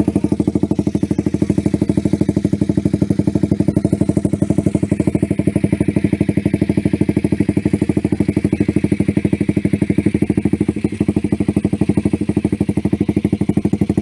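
Motorcycle engine idling steadily through an aftermarket SC Project CRT Titan-style racing silencer (Taiwan import), giving an even, rapid exhaust pulse with no revving.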